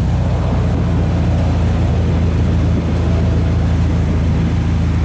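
Steady, loud low engine rumble with a faint high whine above it, unchanging throughout.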